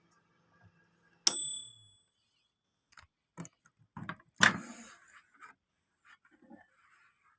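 Sharp microwave oven humming, then falling silent about a second in with a single loud bell ding marking the end of its cycle, followed by clicks and clunks as the oven is handled; the oven runs and turns its plate but does not heat.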